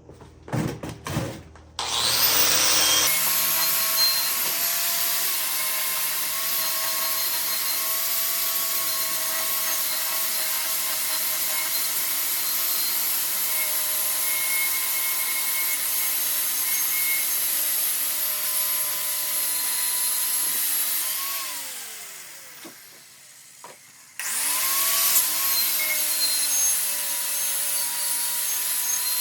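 Electric power tool sanding rust off a brake rotor, running with a steady whine over a scraping hiss. It spins up about two seconds in, winds down about twenty-one seconds in, and starts up again a few seconds later.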